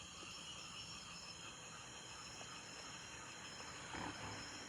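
Faint, steady high-pitched chirring of night insects such as crickets, with a brief soft sound about four seconds in.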